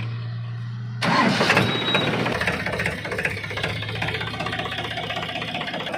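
A heavy diesel engine starts about a second in, then runs steadily.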